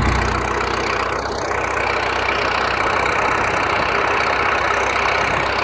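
Tractor engine running steadily, with a low rumble that eases off in the first half-second.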